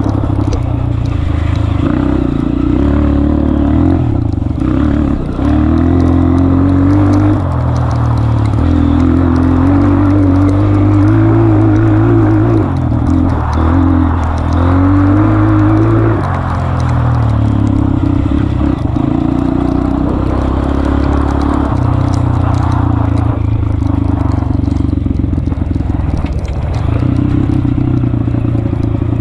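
Honda CRF230F's single-cylinder four-stroke engine running under load on a trail ride, its revs rising and falling again and again with the throttle and gear changes.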